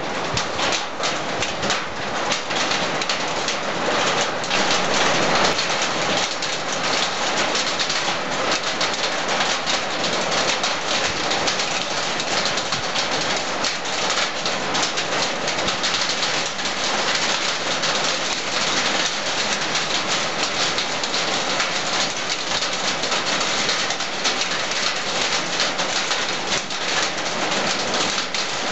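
Heavy rain with small hail hitting hard surfaces: a dense, steady hiss packed with quick ticks from the stones' impacts.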